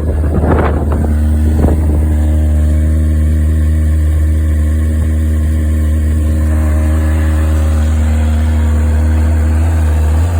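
2002 Kawasaki ZX-6R inline-four engine idling steadily after a cold start, with some wind buffeting on the microphone in the first second or so.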